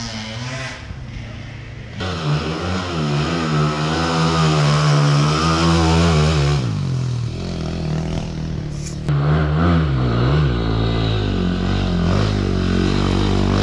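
Single-cylinder four-stroke engine of a KTM EXC-F 250 enduro motorcycle running under throttle off-road, its pitch wavering up and down as the rider works the throttle. It eases off about halfway through and pulls again a few seconds later, with one sharp knock in between.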